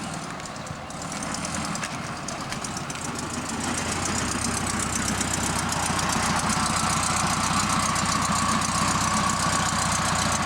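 An engine running steadily with an even beat, getting louder about four seconds in and again about two seconds later.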